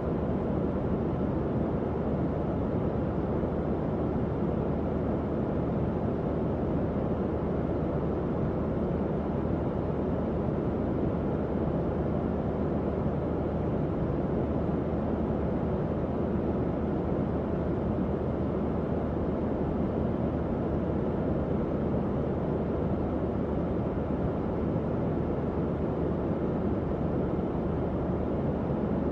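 Tower fan running steadily: an even, low-pitched whooshing of moving air with a faint motor hum beneath it.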